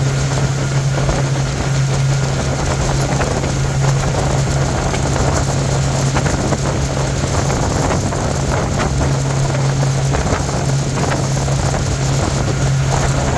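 Bayliner motorboat's engine running steadily underway, a constant low drone with no change in pitch, under rushing water and wind noise on the microphone.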